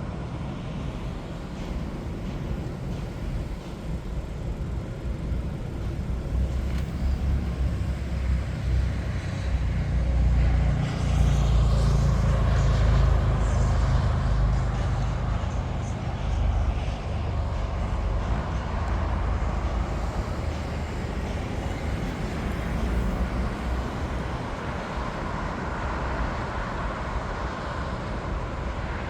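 Jet airliner engines rumbling as an aircraft passes, swelling to a peak about halfway through and then fading.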